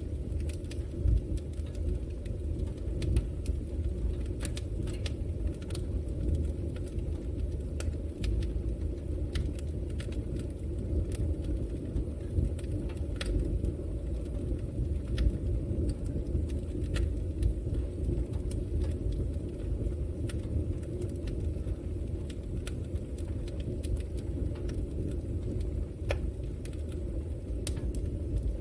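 Fire burning in a fireplace: a steady low rumble of the flames with irregular sharp crackles and pops scattered throughout.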